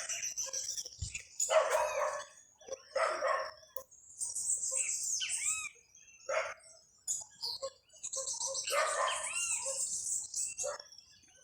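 Many birds chirping and calling at once, in overlapping bursts of short high chirps and looping notes, with some harsher, lower calls among them.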